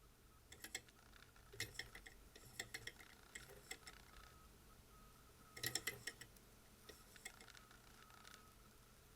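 Small model Stirling engine running faintly, with irregular clusters of rapid light ticking and rattling from its moving parts. The loudest clatters come about two and six seconds in.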